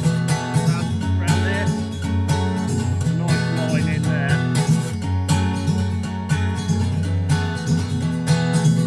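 Background music: an acoustic guitar arrangement, strummed and plucked in a steady rhythm.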